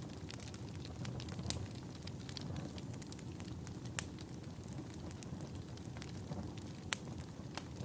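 Wood fire burning in a fireplace: a steady low rumble of flames with scattered sharp crackles and pops, two louder pops about 4 and 7 seconds in.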